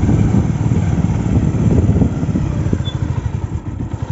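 A small engine running with a rapid low pulsing, dropping slightly in level near the end.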